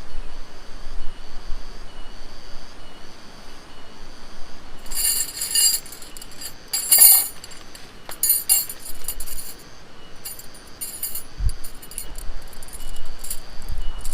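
Several bursts of light clinking and jangling, like small metal or glass items knocking together, from about five seconds in to about eleven seconds. Under them runs a steady, evenly pulsing high chirp, about two pulses a second.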